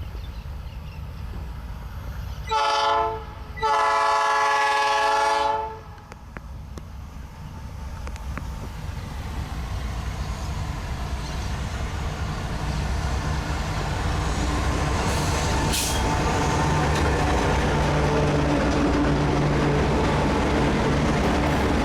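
Diesel freight locomotive air horn: a short blast, then a longer one of about two seconds. After the horn comes the low rumble and steady engine note of the approaching train, growing louder.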